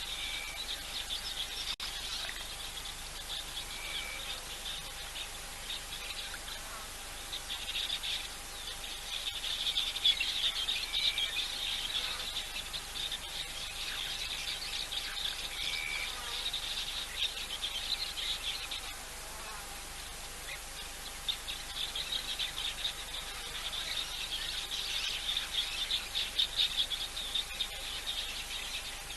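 Insect chorus of rapid high-pitched trilling that swells and fades in long stretches, with a short whistled bird note every few seconds and a faint steady hum underneath.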